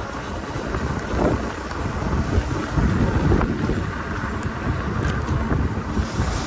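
Wind buffeting the microphone of a camera carried on a moving bicycle, a low uneven rumble that swells and drops in gusts.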